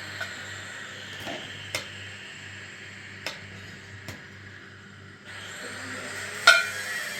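Scattered sharp metallic clicks and clinks of tools or metal parts being handled, about six in all, the loudest near the end with a short ring, over a steady low hum.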